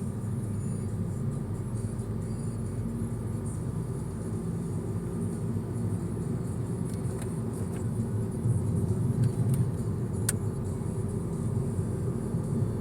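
Steady low rumble of a car's engine and tyres heard from inside the cabin as it drives along, with a single sharp click about ten seconds in.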